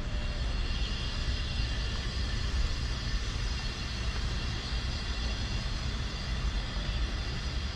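A train of H100 railcars rolling slowly past: a steady low rumble with a thin high squeal laid over it.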